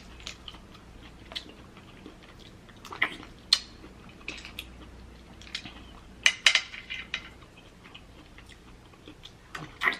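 Close-up eating sounds from a seafood boil: scattered sharp clicks and taps of clam shells and utensils, with soft chewing in between.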